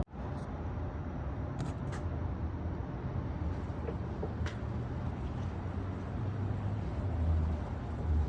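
Steady low rumble of a road vehicle underway, with a few faint ticks.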